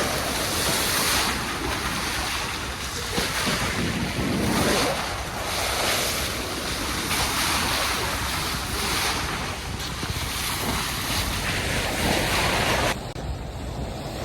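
Rushing water of a ship's bow wave, with wind buffeting the microphone: a loud, steady hiss of spray that swells and eases every couple of seconds. About a second before the end it drops suddenly and turns duller.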